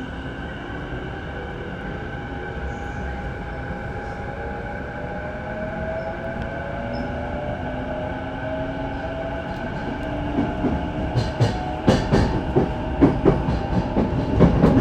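E233-7000 series Saikyo Line electric train pulling away and accelerating, its traction motor whine rising slowly in pitch over a steady running hum. From about eleven seconds in, a quick run of clacks is heard as the wheels cross rail joints and points.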